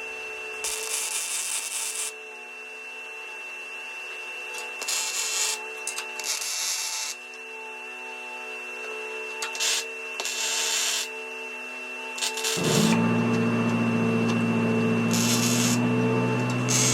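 Welding arc crackling in short bursts, several separate tacks of a second or two each, as a steel plate is tack-welded in place. A steady low hum comes in about two-thirds of the way through.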